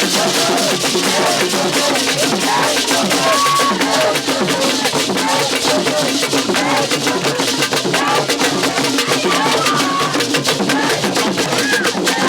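Music led by dense, rapid drumming and percussion, with voices rising and falling above it.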